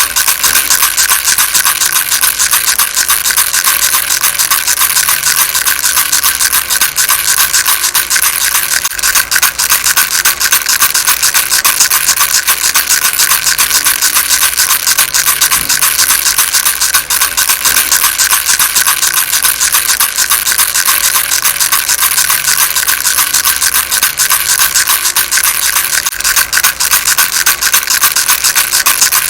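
Baby rattle shaken continuously: a loud, dense, steady rattling, mostly high-pitched, with no pauses.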